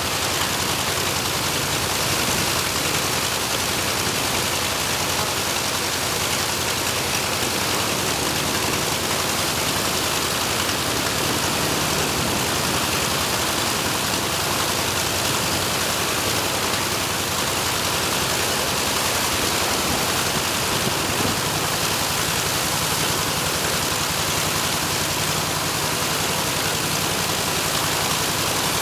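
Mitsubishi A6M5 Zero's original Nakajima Sakae 21 fourteen-cylinder radial engine running steadily with its propeller turning, a constant even drone with no change in speed.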